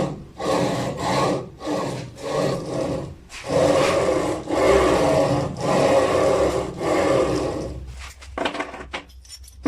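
Rhythmic back-and-forth rasping strokes of a hand saw or file working material, about two strokes a second at first, then longer, slower strokes about a second each, and fainter quick strokes near the end.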